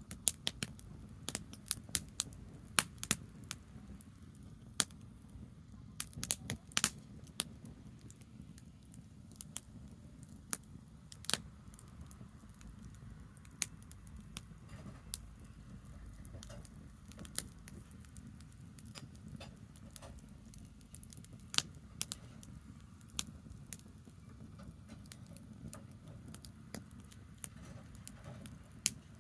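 Bonfire of branches crackling, with sharp pops at irregular intervals, several close together in the first seven seconds, over a steady low rumble.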